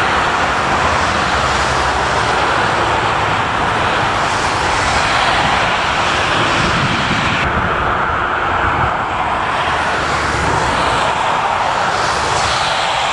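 Jet airliner's engines at take-off power, a loud, steady rush of jet noise. The higher hiss drops away suddenly about halfway through and returns near the end.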